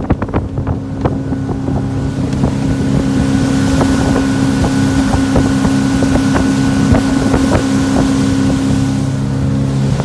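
2001 Four Winns 248 Vista's engine running steadily under way at cruising speed, a constant drone, with wind rushing over the microphone and scattered brief knocks. The engine note shifts slightly near the end.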